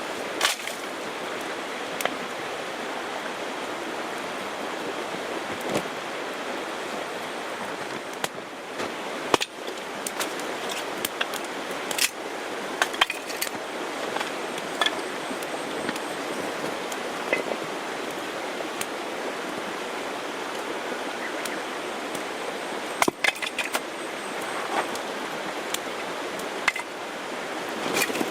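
Campfire of split wood burning: a steady hiss with scattered sharp pops and crackles at irregular moments.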